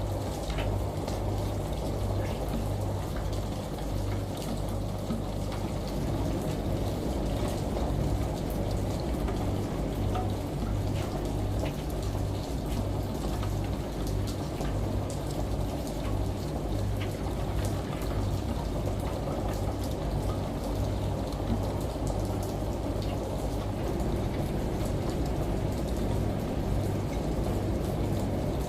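Steady layered ambience of rain and running shower water over a washing machine's low hum, with many small drop ticks throughout.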